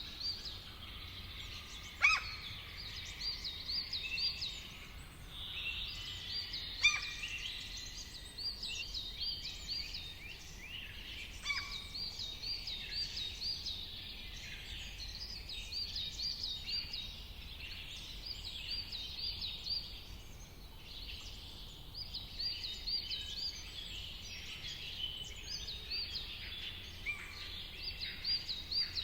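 Many songbirds singing and calling together: quick runs of repeated high chirps throughout, with a few sharper, louder calls about 2, 7 and 11 seconds in. A faint steady low hum lies underneath.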